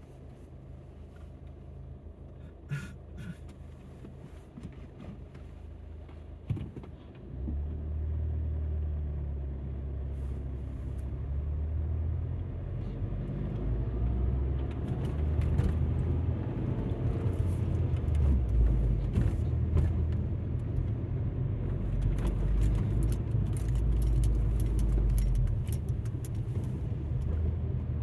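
Alfa Romeo MiTo running quietly, then pulling away about seven seconds in, with engine and tyre rumble building as it gathers speed. Scattered light clicks and ticks sit on top.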